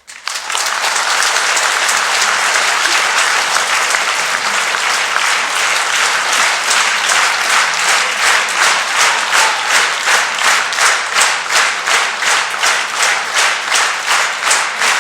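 Theatre audience applauding after a song, starting suddenly and loud. After about seven seconds the applause settles into rhythmic clapping in unison, about three claps a second.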